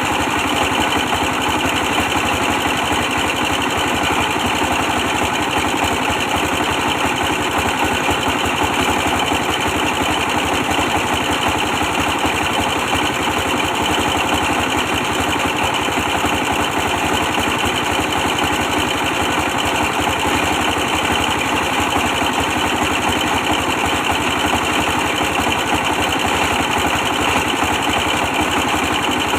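24 hp stationary diesel engine running steadily with a fast, even beat while powering a brick press machine.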